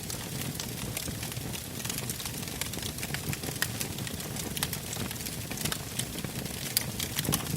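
Wood campfire burning, a steady low flutter of flames with frequent sharp crackles and pops from the logs, a quick cluster of louder snaps near the end.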